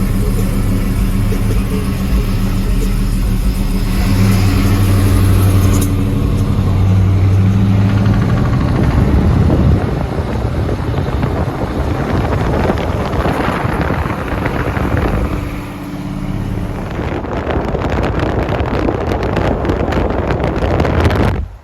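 Loud car engine running, with stretches of revving, that cuts off abruptly near the end.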